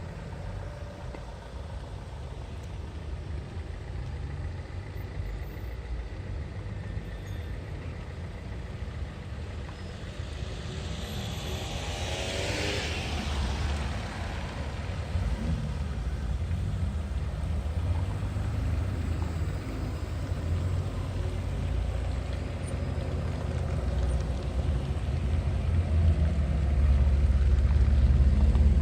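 Car engine and road rumble, growing louder toward the end, with another vehicle whooshing past about twelve seconds in.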